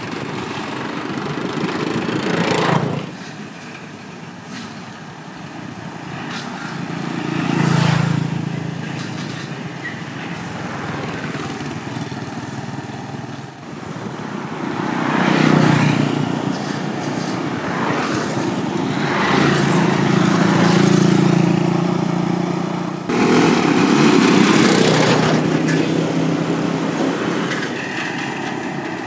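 Motorbikes crossing the Cẩm Kim steel bridge one after another, each engine swelling and fading as it passes, about five passes in all, with a steady traffic hum between them.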